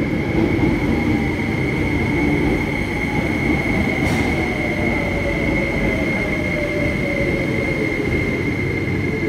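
MTR SP1900 electric multiple-unit train running between stations, heard from inside the carriage: steady rolling rumble with a constant high whine and a fainter tone that slowly falls in pitch.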